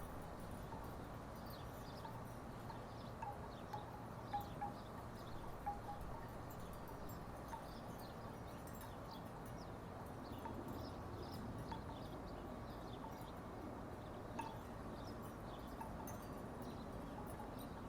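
Wooden tiki wind chimes sounding in short, scattered notes that come most often about three to six seconds in, over a steady low background noise.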